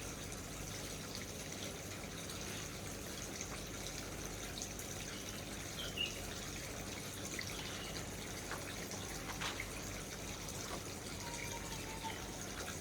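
Water trickling steadily, with a few short high chirps dropping in pitch and some faint ticks.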